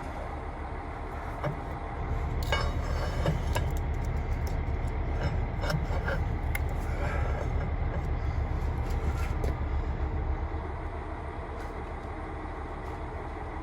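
A heavy vehicle's diesel engine running with a steady low throb. It grows louder about two seconds in and eases off again near ten seconds, with a few sharp metallic clicks over it.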